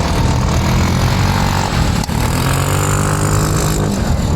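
Motorcycle engine idling steadily, its pitch shifting slightly about halfway through.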